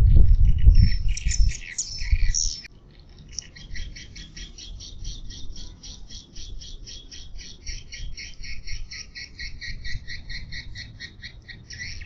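Swiftlet calling sound, the lure played to draw swiftlets to a nest house: a dense burst of twittering over a low rumble in the first couple of seconds, then a steady run of short, dry chirps, about five a second.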